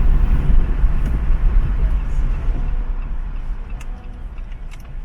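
Low, steady rumble of a car driving, dying away steadily, with a few faint clicks near the end.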